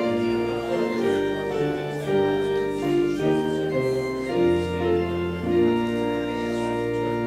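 Organ playing sustained chords over a low bass line, the chords changing every second or so, then settling on one long held chord near the end.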